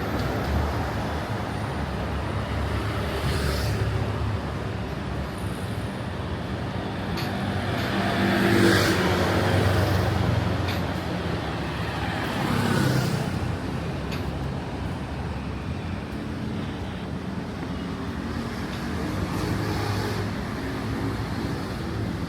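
Road traffic running steadily past on a city street. Vehicles pass close by, louder about nine seconds in and again about thirteen seconds in.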